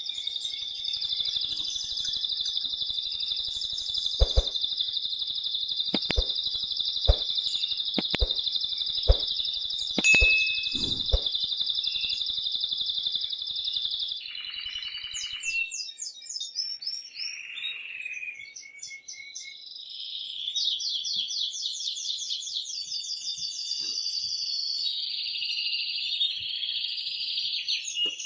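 Male domestic canary singing loudly: a long unbroken rolling trill of about fourteen seconds, then a run of varied quick trills and chirped phrases. Several sharp clicks sound during the long trill.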